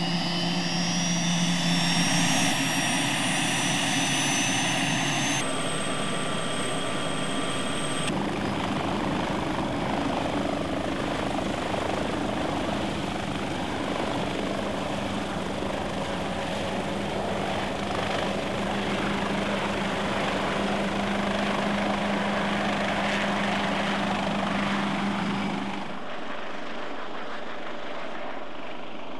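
KC-518 composite helicopter running, engine and rotors steady, with a whine that rises in pitch over the first two seconds. The sound changes abruptly a few times, as between separate shots.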